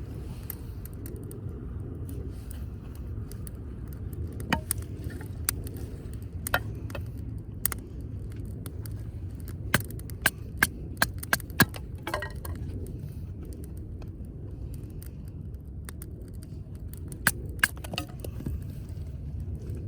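Wood fire in a firewood grill crackling, with scattered sharp pops and a quick run of about six pops around ten to eleven seconds in, over a steady low rumble. The firewood is damp.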